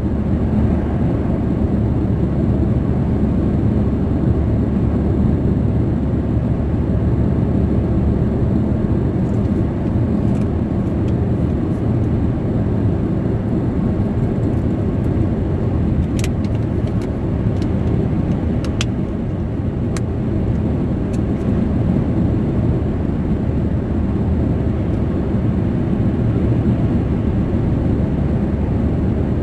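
Steady road and tyre noise inside a car's cabin while driving, a low, even rumble with no change in pace. A few faint clicks come through past the middle.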